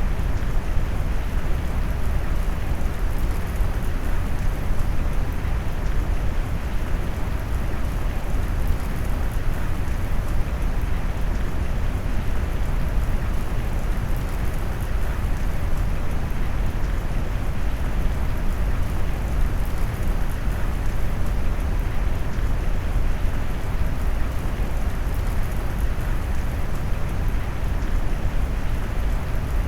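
Steady rain sound mixed with deep brown noise, a low rumbling hiss with no distinct drops or events.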